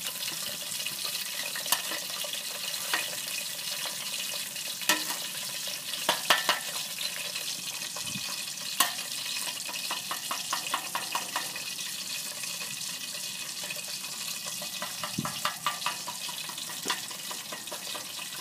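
Chicken frying in hot oil: a steady sizzle with scattered pops and crackles, which come thickest for a couple of seconds about ten seconds in.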